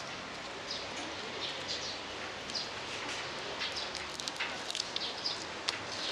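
Close-up eating sounds of a person chewing grilled fish: soft mouth clicks and smacks, more frequent in the second half, over steady outdoor background noise.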